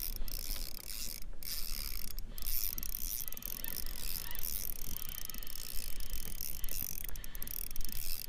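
Spinning fishing reel being cranked, a steady run of gear clicking, with a low wind rumble on the microphone.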